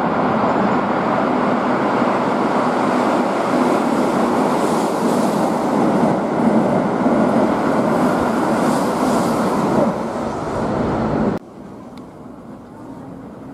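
Keihan 8000-series limited express passing through a station at speed: a steady loud rush of wheels and running gear on the rails. It cuts off suddenly about eleven seconds in, leaving a much quieter background.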